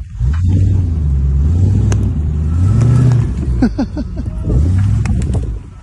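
A 4x4's engine revs up and eases off several times while driving off-road, with a few sharp knocks and rattles, about two seconds in and again later.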